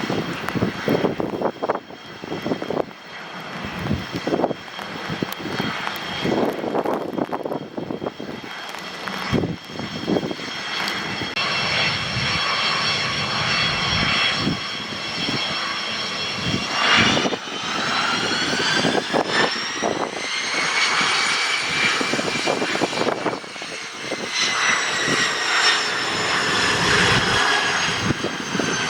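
Private jet's engines running with a high turbine whine that rises in pitch about 17 seconds in, then eases slightly. Gusty low rumbling underneath.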